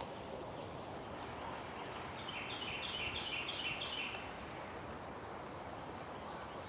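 A songbird singing one phrase of quickly repeated high notes, each group stepping down in pitch, starting about two seconds in and lasting about two seconds, over a steady outdoor background hiss.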